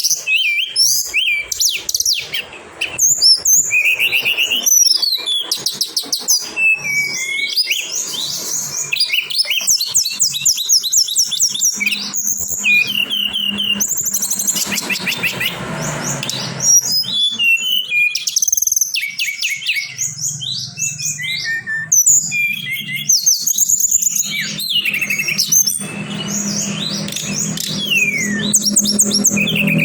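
Tledekan songbird song used as a lure recording: fast, varied high chirping and trilling phrases, one after another. A low steady music bed runs underneath in the middle and again in the later part.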